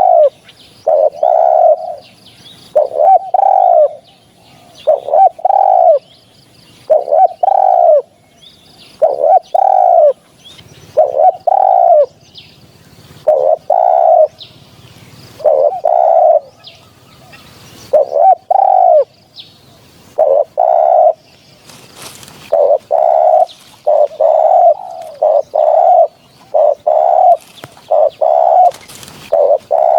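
Spotted doves cooing over and over, short low coos in quick runs of two or three notes, coming faster in the last third. Faint higher chirps of small birds sound in between.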